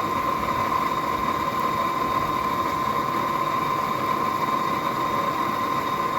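Forge running steadily: a constant rushing of air with a steady high whine over it.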